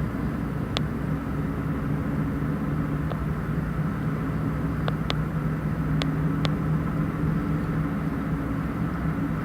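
A motor running steadily with a low drone, and about six short, sharp clicks scattered through it.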